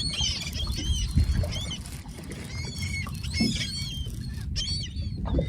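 A flock of seabirds working over the water, calling: many short, arching cries overlapping one another, over a low steady rumble.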